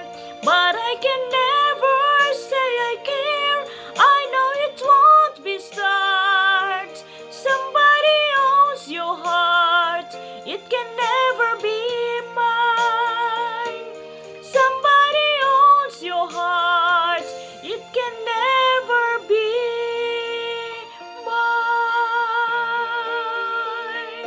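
A woman singing a slow ballad over music accompaniment, with wavering vibrato on sustained notes. A long held note starts near the end.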